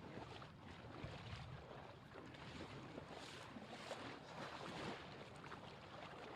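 Faint, irregular splashing and sloshing of floodwater, as someone moves through deep water.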